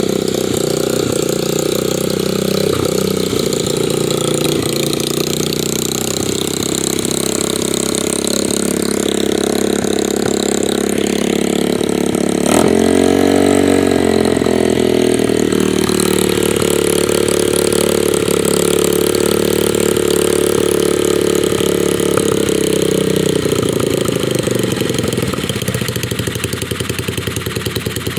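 125cc Baja dirt bike engine running steadily at idle on a new carburettor and air filter, with one brief rev up and back down about halfway through.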